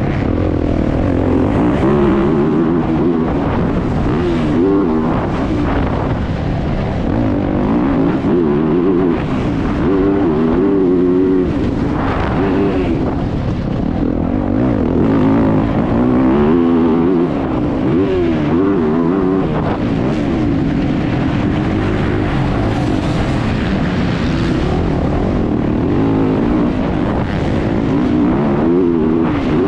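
Motocross bike engine heard from on board under race throttle, its pitch repeatedly rising and falling as it revs through the gears and backs off for turns, over steady wind and dirt noise.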